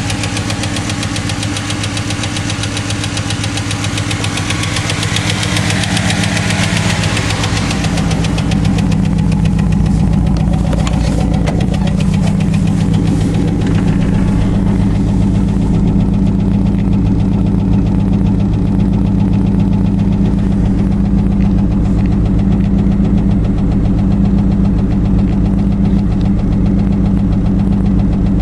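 Car engine idling steadily with a light ticking from the front of the engine, which the owner puts down to worn hydraulic lifters (valve tick). A hiss over the engine fades away in the first half.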